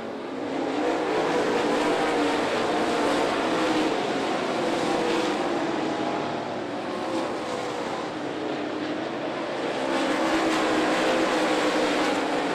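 A field of dirt late model race cars running at racing speed, several V8 engines heard at once with wavering pitch. The sound gets louder about a second in and again near the end.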